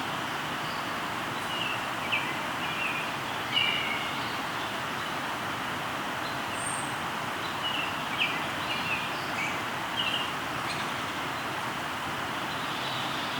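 River flowing steadily, with a bird calling in two short runs of chirps, about two seconds in and again about eight seconds in, and a brief high note between them.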